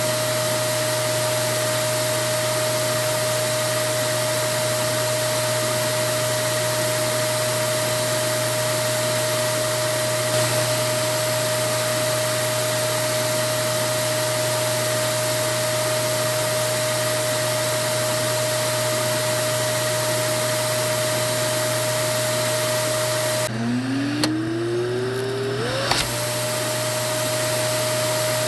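Vacuum cleaner motor running with a steady whine over an even rush of air. Near the end the rush drops out for a couple of seconds while a whine rises in pitch, and the full steady sound comes back with a click, like the motor winding back up to speed.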